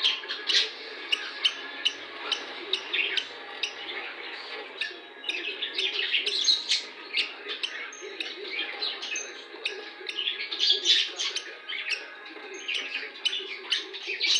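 Young hand-reared bird chirping over and over in short, high peeps, several a second, with a few sharp clicks among them.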